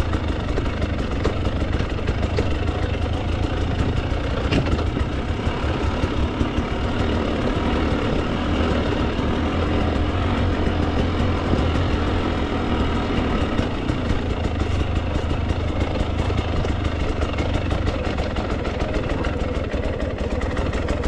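Dirt bike engine running steadily at low revs, with no sharp revving.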